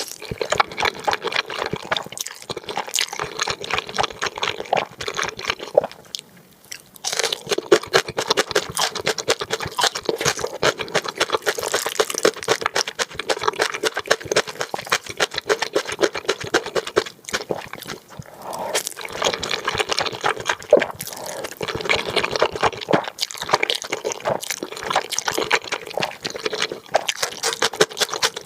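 Close-miked eating of spicy black noodles: rapid, wet chewing and slurping mouth sounds, with a short pause about six seconds in.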